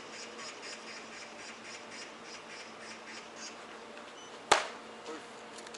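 A single sharp smack of a baseball striking something, about three-quarters of the way through, over a faint, evenly pulsing insect buzz.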